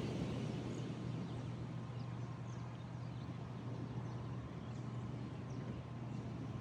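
Steady low rumble of wind and ocean surf, with short, high, falling bird chirps scattered through.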